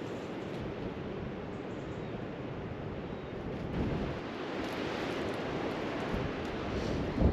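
Wind rushing over the microphone, a steady noise that swells about four seconds in, with a short thump near the end.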